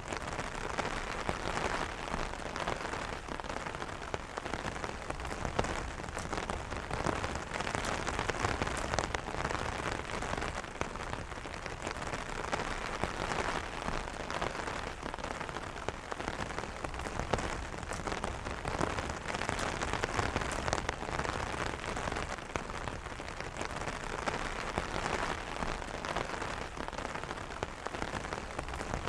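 Steady rain drumming on an umbrella canopy: a dense patter of individual drops over a continuous hiss.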